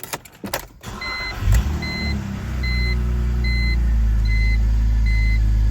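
A few clicks, then the 3.0-litre inline-six of a 2003 BMW E46 330i ZHP cranks and catches about a second in, and settles into a fast cold idle that rises around the middle. A dashboard warning chime beeps steadily, about once every 0.8 seconds.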